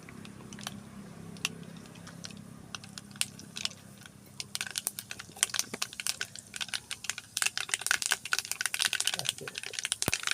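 Chana dal frying in hot oil, crackling and popping: scattered pops at first, turning into a dense crackle from about halfway.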